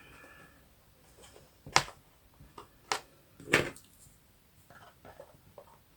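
Handling of paper craft pieces and tools on a table: a few sharp taps and clicks, the loudest about two seconds in and again about three and a half seconds in, with fainter rustles between.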